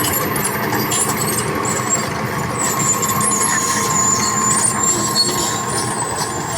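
Heavy diesel construction machinery running steadily, with a constant whine and thin, wavering high-pitched squeals over the engine noise.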